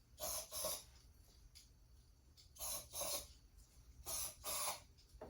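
Aerosol can of starter fluid sprayed into the motorcycle's carburetor intakes in short hissing squirts, three quick pairs about a second and a half apart.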